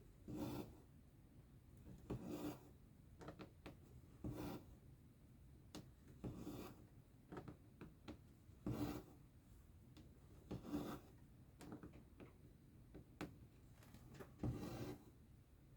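Embroidery thread being pulled through cross-stitch fabric: a soft rasping swish about every two seconds, with small needle clicks between.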